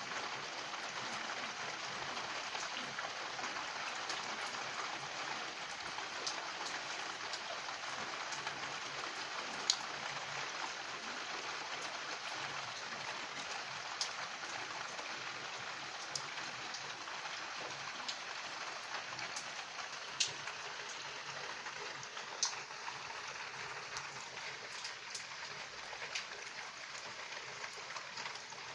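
Steady rain, an even hiss, with single drops now and then striking something hard in sharp clicks a few seconds apart.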